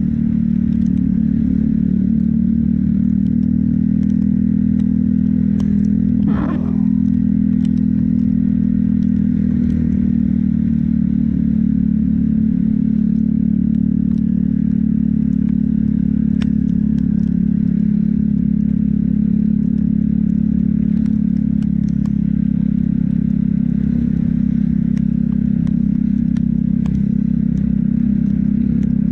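Motorcycle engine running steadily while riding, with a brief dip about six and a half seconds in.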